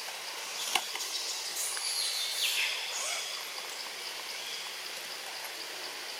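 Outdoor ambience: a steady high hiss, one sharp click about a second in, and a few short high-pitched chirps or squeaks between two and three seconds in.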